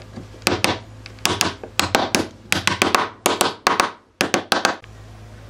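A run of sharp taps or knocks on a hard object, often two close together, stopping shortly before the end.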